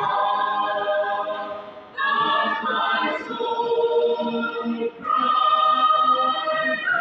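A choir singing a hymn without accompaniment, in held notes with two short breaks between phrases, about two and five seconds in.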